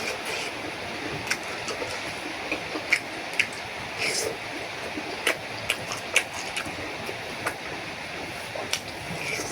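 Someone eating a bowl of noodle soup: irregular sharp clicks and clinks of utensils against the bowl over a steady hiss.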